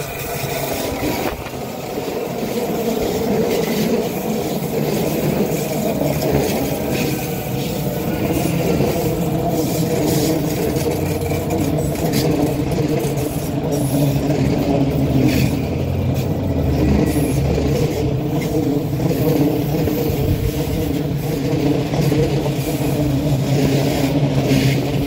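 A vehicle running, a steady motor drone with faint gliding tones and scattered clicks; it grows a little louder over the first few seconds.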